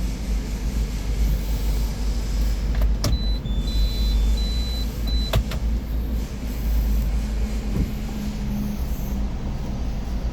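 Steady low rumble of a car, with two sharp clicks about two seconds apart and a short run of high-pitched beeps between them.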